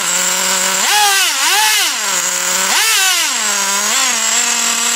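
Traxxas T-Maxx nitro RC truck's small glow engine running with a high-pitched, buzzing idle, blipped up in revs several times: two quick rises about a second in and a longer, higher rev near three seconds that falls back slowly to idle.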